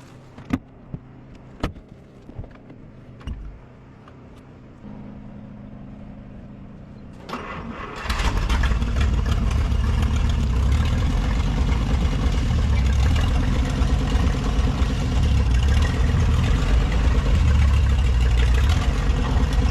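A few light clicks and knocks, then about seven seconds in the 1955 Willys station wagon's engine starts and runs loudly and steadily for the rest, while its stuck clutch is being worked free.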